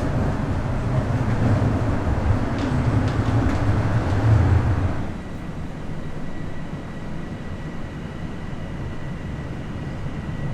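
Bombardier Toronto Rocket subway train running on the rails with a loud low rumble that drops off abruptly about five seconds in to a quieter steady run, with a faint steady high whine.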